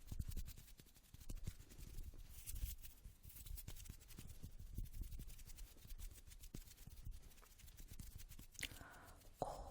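Fast, irregular ASMR tapping close to the microphone: a dense run of quick soft taps and clicks with low thumps. A brief louder sound comes near the end.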